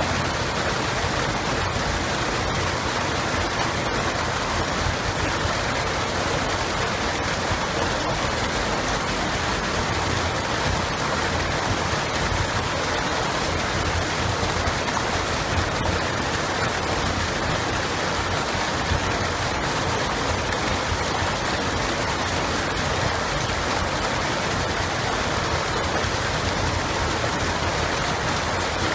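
Running water flowing steadily, a constant even rush with no change in level.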